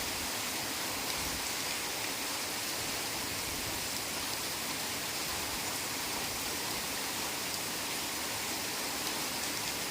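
Heavy rain falling steadily: an even, unbroken hiss of downpour with no change in strength.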